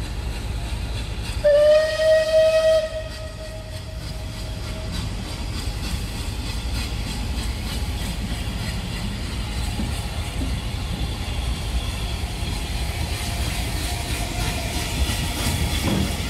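A locomotive sounds one single-pitched warning blast about a second and a half in, loud for a second or so and then trailing away. Under it runs the steady low rumble of the moving train.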